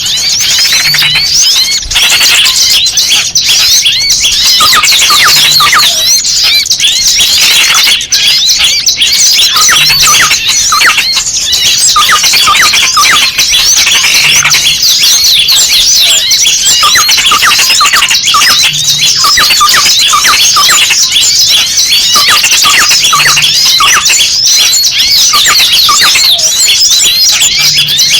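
A loud, dense chorus of many small birds chirping and squealing rapidly without a break. It is a bird-luring call of noisy small birds, the kind meant to sound like a trapped, distressed small bird.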